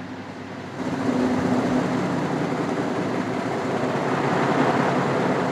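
Ceiling fan switched on directly without its speed regulator, its motor hum and the rush of air starting up suddenly about a second in and then running steadily at full speed.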